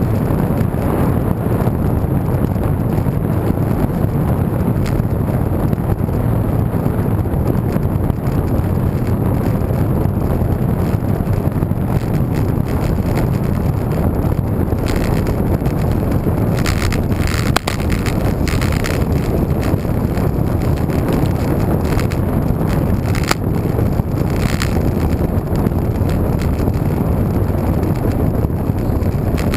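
Wind rushing over the microphone of a moving road bike, a steady loud buffeting noise, with a few sharp ticks and clicks in the second half.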